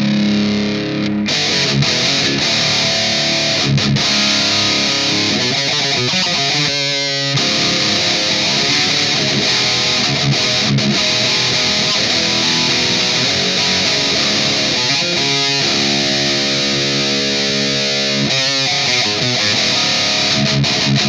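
Distorted electric guitar riffing, with held chords and notes that ring for several seconds between changes.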